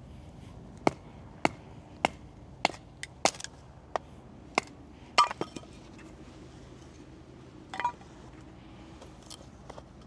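A series of sharp knocks, about one every half second at first, then a few more scattered ones, with a small cluster just after the midpoint.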